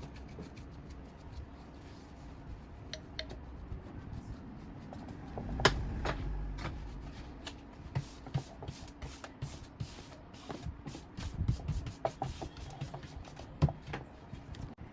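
Hand work on small parts: scattered clicks, taps and rubbing, with two sharper knocks, one about six seconds in and one near the end.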